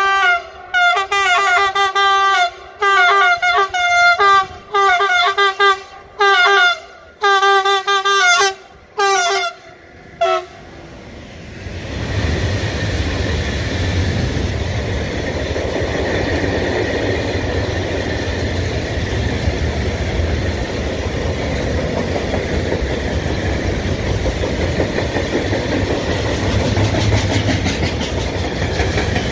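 Train horn sounded in a rapid series of about ten short blasts, some bending in pitch. It is followed by the steady rumble and wheel clatter of a train passing over the level crossing.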